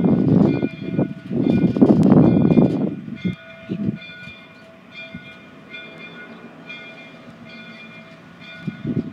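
Train running close by: a loud low rumble for about the first three seconds that then drops away. Through it, a locomotive bell rings at an even pace, a little faster than once a second.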